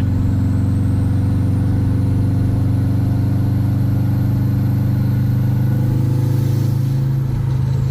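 2-liter Subaru WRX turbocharged flat-four pulling under load, with a faint high whine climbing slowly as boost builds. Near the end the engine briefly breaks up and the whine falls away; the owner puts the breaking up down to spark plugs he forgot to check.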